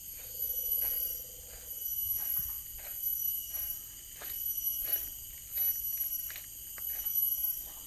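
Cicadas droning in high, steady tones, swelling and fading every second or two, with many short ticks or rustles throughout and a brief low buzz in the first two seconds.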